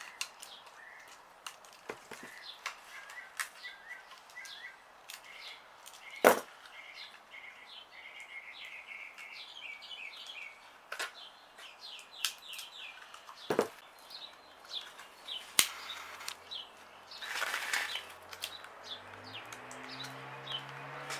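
Birds chirping over and over in short, repeated calls, with a few sharp clicks and a brief rustle near the end.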